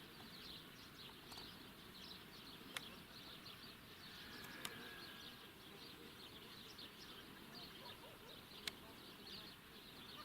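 Faint outdoor ambience of many small high chirps, overlapping and unbroken, with four sharp clicks scattered through it.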